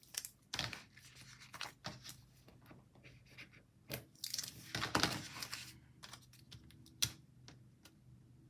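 Paper and sticker pieces being handled on a planner page: soft rustling and crinkling with scattered light taps and clicks, busiest about four to five seconds in, and one sharp click about seven seconds in.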